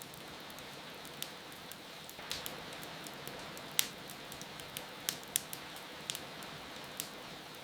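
A wood fire crackling, with sharp irregular pops, over a steady hiss of falling rain.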